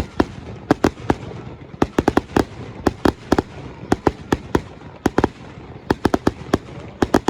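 Aerial fireworks exploding in a rapid, irregular barrage of sharp bangs, several a second, each with a short echo, over a background crackle.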